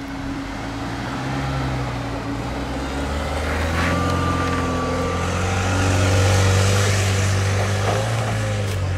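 Renault Arkana's 1.3-litre turbo four-cylinder engine revving under load as the crossover, traction control switched off, attacks an off-road climb with momentum. The engine note rises about three seconds in and is loudest around six seconds in.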